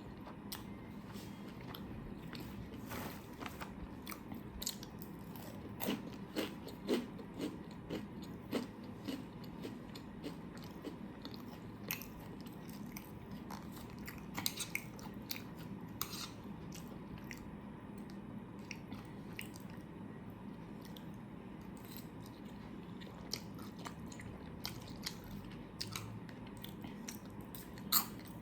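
A person chewing and biting food close to the microphone, with scattered small wet mouth clicks and smacks that come thickest about six to nine seconds in.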